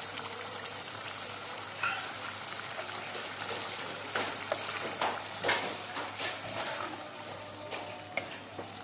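Chicken curry sizzling in a metal pan while freshly added yogurt is stirred in with a metal spoon, the spoon knocking and scraping against the pan several times in the second half.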